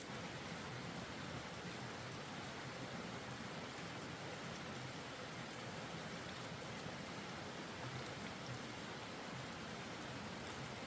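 Steady spray of running water, starting abruptly at the outset and holding even throughout.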